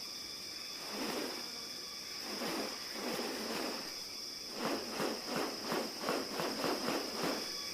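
Steady high drone of rainforest insects, with a series of rustling, swishing bursts that quicken into a run of about three a second in the second half.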